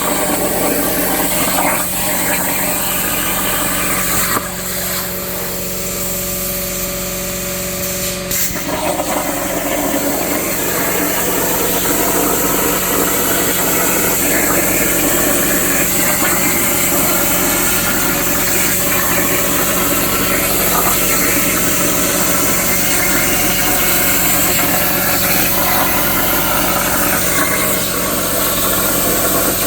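Plasma torch on a CNC plasma table cutting a steel saw blade: a steady loud hiss over a constant hum. It drops away for about four seconds early on and comes back with a sharp crack as the arc restarts.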